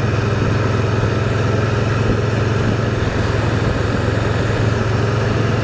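Can-Am Spyder three-wheeled motorcycle's engine running at a steady cruise, a constant low hum with road and wind noise.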